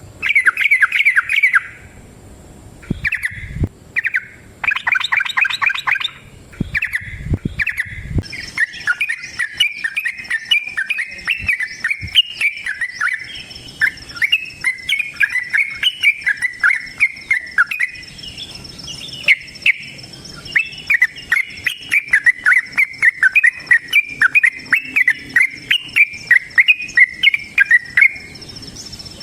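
Yellow-vented bulbul (trucukan) singing: a few short bubbly phrases, then from about eight seconds a long unbroken run of rapid chattering notes, the long 'ropel' fighting song. A faint steady high thin tone runs under the song from the same point.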